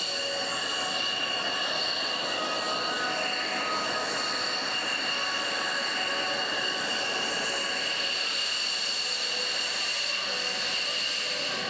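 Jet engine running steadily with a high, unchanging turbine whine over a steady rush.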